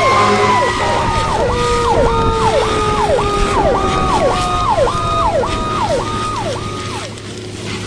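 Emergency vehicle sirens. A fast yelp sweeps up and down about twice a second while a slower wail winds down in pitch, over a steady low rumble. The sirens stop about seven seconds in.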